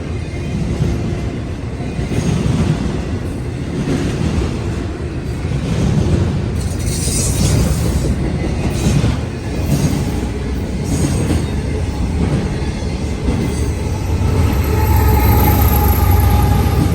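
Freight train cars rolling past with a steady low rumble. About midway the wheels click over rail joints, and near the end a high wheel squeal sounds.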